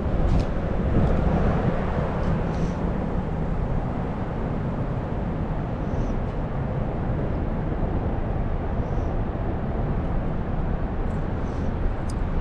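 Steady wind rumbling on the microphone, with a few faint high ticks.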